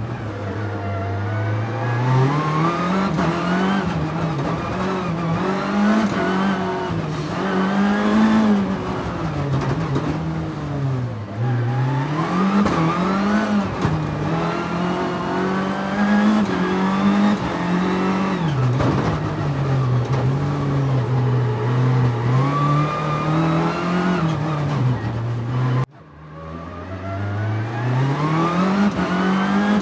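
Nissan 300ZX's V6 engine revving up and down as the car is driven hard through corners, the pitch climbing and falling every few seconds. Near the end the sound cuts out for a moment, then the revs climb again.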